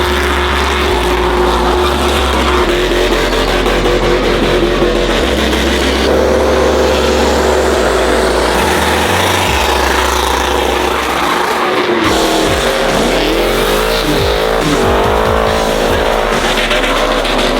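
Truck engine held at high revs through a burnout, with tire squeal throughout. In the last few seconds the revs swing up and down repeatedly.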